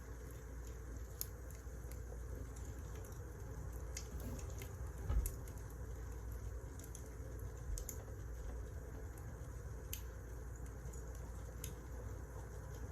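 Wood fire crackling: scattered sharp pops and snaps over a steady low hum, with one duller thump about five seconds in.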